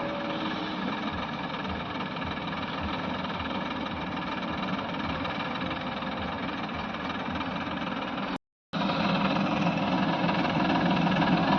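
Heavy diesel machinery engine running steadily under work. The sound drops out completely for a moment about eight seconds in, then comes back a little louder.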